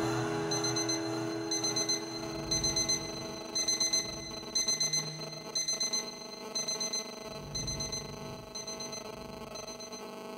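Digital alarm clock beeping: quick bursts of about four high beeps, roughly once a second, fading a little toward the end.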